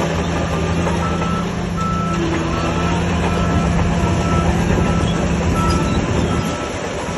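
Diesel earthmoving machine running, with its reversing alarm beeping about one and a half times a second from about a second in.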